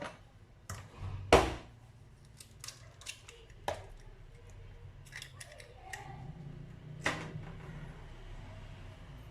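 An egg being cracked on the rim of a mixing bowl: a couple of sharp knocks near the start, then a scatter of lighter clicks and taps of shell and utensils against the bowl.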